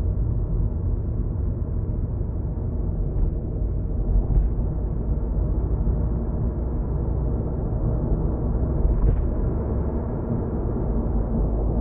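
Steady low rumble of road and engine noise inside a moving car, with a couple of short knocks about four and nine seconds in.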